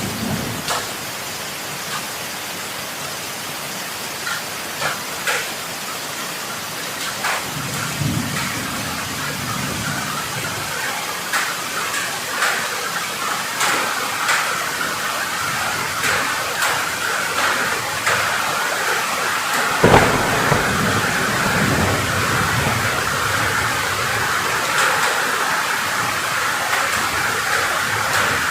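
Heavy rain falling steadily, with many close drops pattering and dripping. Thunder rumbles low about eight seconds in, and a sharper thunderclap about twenty seconds in is the loudest moment.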